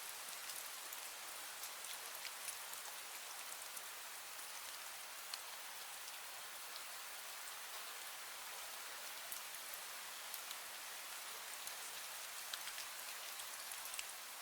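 Light drizzle falling, a steady hiss with scattered ticks of individual drops.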